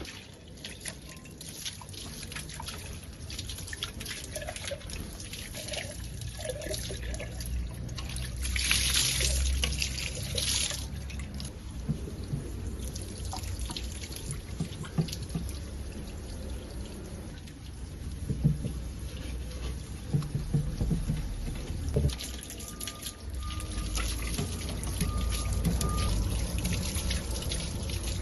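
Water pouring and trickling during cleaning, with scattered knocks and clatter. About eight seconds in there is a louder rush of hissing water lasting about two seconds.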